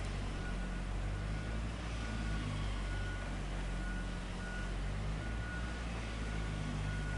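Heavy diesel machinery running steadily with a low hum, with a backup alarm beeping about once a second.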